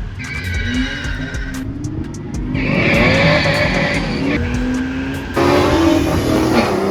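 Supercharged GM 3800 V6 running hard under acceleration, its pitch rising several times, with tires squealing. The sound changes abruptly about five seconds in.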